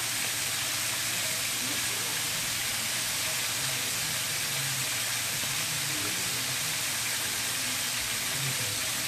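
Chicken tenders deep-frying in hot oil in a stainless steel pan: a steady, even sizzle.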